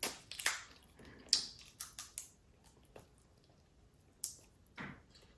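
Close-miked eating of whole crab: wet chewing and small clicks and cracks of crab shell, thickest in the first two seconds, then a pause and a single sharp click near the end.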